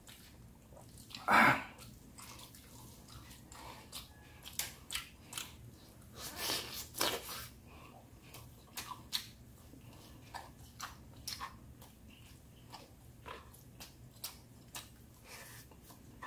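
Close mouth sounds of a person eating boiled lechon pork by hand: irregular wet chewing and lip smacks, with louder sucking or biting sounds about a second and a half in and again about six and a half seconds in.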